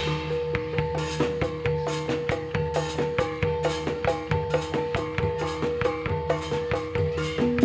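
Javanese gedruk dance music in gamelan style: drums keep a quick, even beat under repeated pitched metallophone notes stepping between a few fixed tones.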